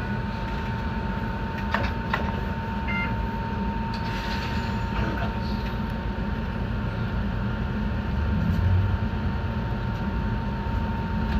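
Enoden electric train running along the track, heard from on board: a steady low rumble with a constant thin tone, and a couple of sharp clicks about two seconds in.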